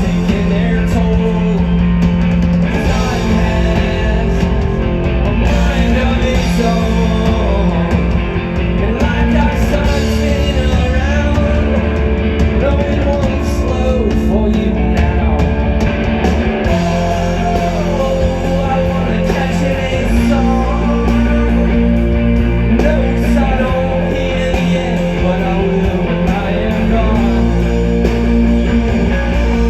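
Live rock band playing loud and steady, with electric guitars, bass and drums.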